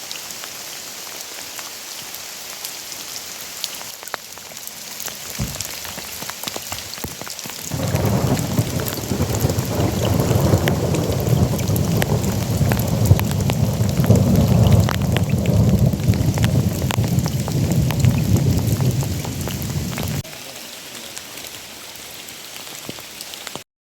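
Heavy rain falling, with many sharp raindrop hits close by. From about eight seconds in, a long low thunder rumble rolls under the rain, then cuts off suddenly about twelve seconds later.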